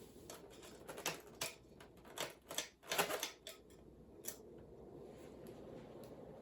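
Hunter Comfort Breeze ceiling fan running on high speed with a steady whoosh of moving air. Over it comes a burst of irregular clicks and rattles that dies away about four seconds in.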